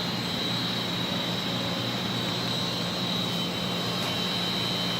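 Steady drone of boiler-room machinery (boilers and circulating pumps running), a constant low hum with a thin high whine over it.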